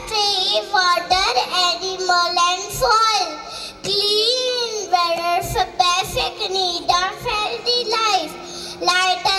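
Young children singing together over backing music with a beat.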